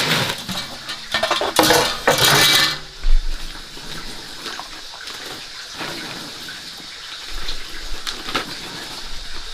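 Water splashing and pouring in several loud bursts over the first three seconds, then a few light clinks and knocks.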